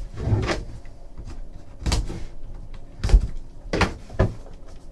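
Cardboard trading-card hobby box being opened and handled, with about five short knocks and bumps spread over a few seconds.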